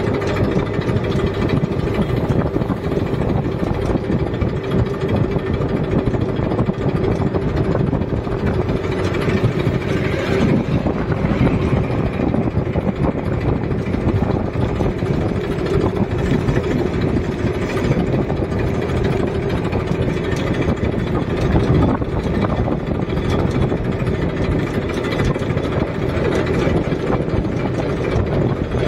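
Massey Ferguson tractor's diesel engine running steadily, with a continuous mid-pitched drone.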